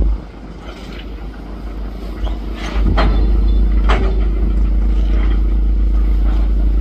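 Demolition excavator running, with several sharp cracks and crashes of breaking masonry near the middle. A heavy low rumble swells from about three seconds in.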